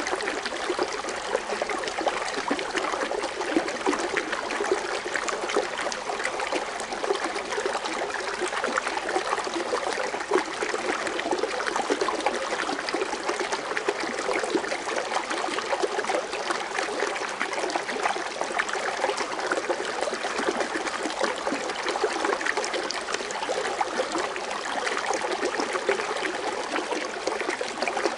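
Water fountain running steadily, its water splashing and trickling with a continuous bubbling patter.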